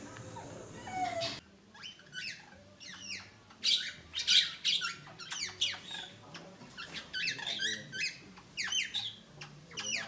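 Budgerigar chattering: a running string of short, quick warbled chirps and squeaks, several a second.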